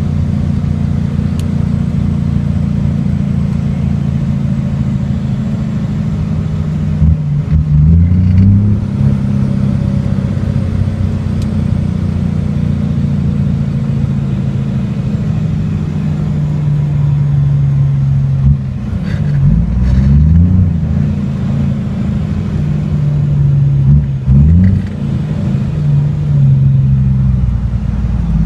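Diesel semi-truck engine heard from inside the cab, a loud, steady low drone whose pitch falls and climbs again three times as the truck is driven through its gears.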